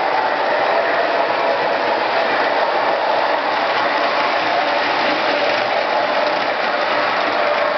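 MTH O-gauge model subway trains running on the track, a steady mechanical whir and rattle of motors and wheels.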